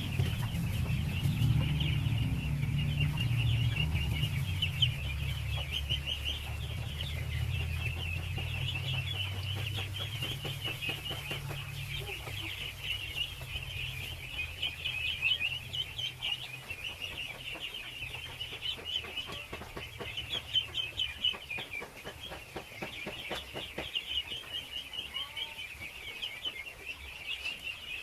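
A large flock of ducklings peeping all at once in a dense, continuous chorus of high chirps. A low rumble underneath fades away over the first half.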